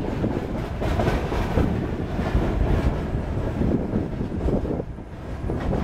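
Freight train of open gondola wagons loaded with coal rolling past, its wheels rattling and clattering on the rails in a continuous heavy rumble.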